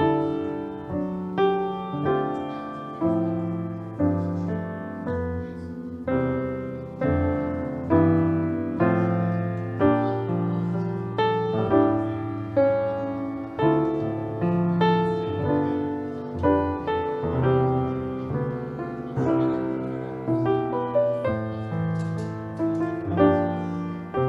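Solo piano playing a slow piece, chord after chord, each struck and left to fade: a postlude.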